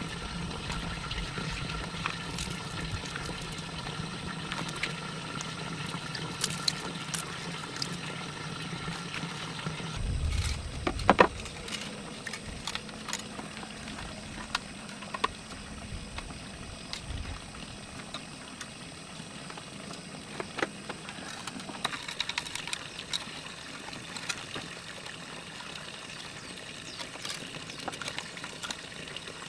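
Water pouring and trickling with scattered small clicks. A steady hum runs under it and stops about a third of the way in, and a sharp knock, the loudest sound, comes soon after.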